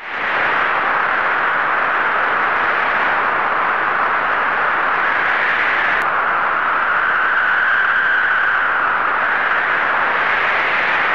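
Steady rushing hiss of a violent storm, with no low rumble; it changes abruptly about six seconds in, settling into a slightly narrower hiss.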